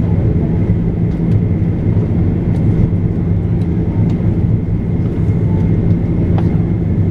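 Airliner cabin noise heard from inside the cabin: a loud, steady drone of engines and airflow with a low hum and a faint steady high tone over it.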